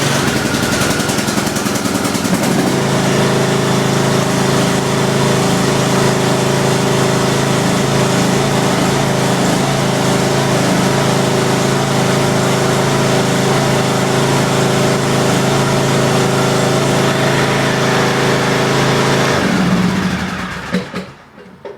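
Craftsman YTS 3000 lawn tractor engine running on choke just after a cold start. It is rough for about two seconds, then settles into a steady run, and is shut off near the end, winding down.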